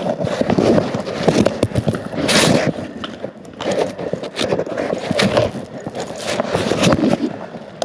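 Irregular scraping, rustling and crackling of wood, bark and branches rubbing, in uneven bursts about every second or two, with no chainsaw running.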